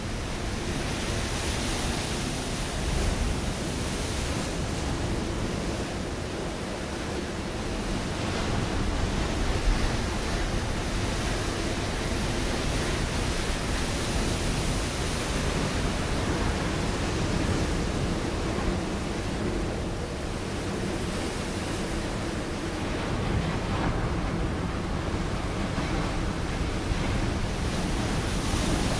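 Ocean waves breaking on a rocky shore: a continuous rush of surf that swells and eases slowly, with a few stronger surges around three and ten seconds in.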